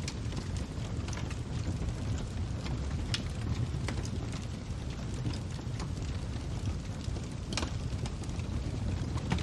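Wood fire crackling: irregular pops and snaps over a steady low rumble, with one louder snap a little past the middle.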